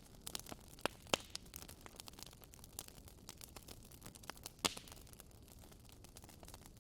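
Wood fire in a fireplace crackling: scattered irregular clicks and small pops over a faint hiss, with one louder pop about two-thirds of the way through.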